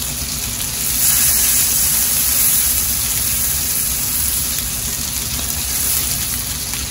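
Sea scallops searing in butter in a frying pan: a steady, even sizzle.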